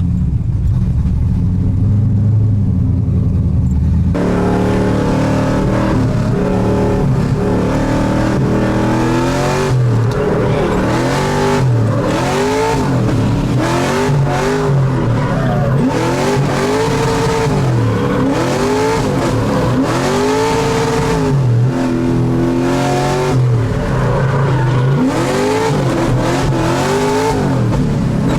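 The LS3 V8 engine of a swapped Mazda Miata running under way. About four seconds in it gets suddenly louder and keeps revving up and falling back again and again as the throttle is worked hard.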